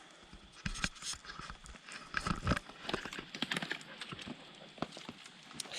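Irregular clacks and knocks of stones in a rocky stream bed, with stones shifting against each other as a large rock is grappled with and stepped around.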